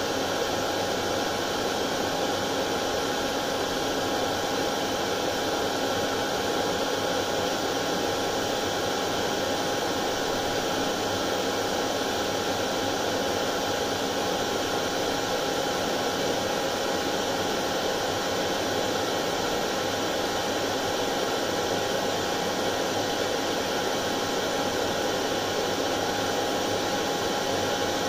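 Hair dryer running continuously at a steady speed: an even rushing hum with a faint steady whine, no change in pitch or level.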